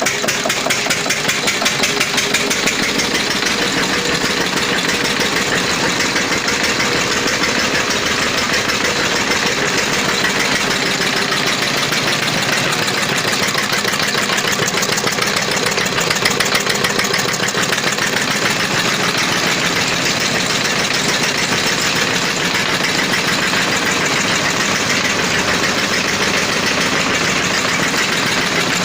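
Old 12 HP Field Marshall Supra Lister-type diesel engine running steadily with a rapid, even beat.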